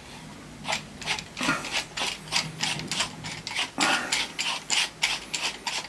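A hand-cut metal thread being screwed together by hand: the aluminium extension turning into the microscope stand's base, giving a run of irregular clicks and scrapes, about three a second, starting about a second in.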